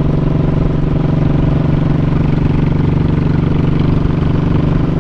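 Honda Shadow 1100's V-twin engine running at a steady speed while the motorcycle cruises along.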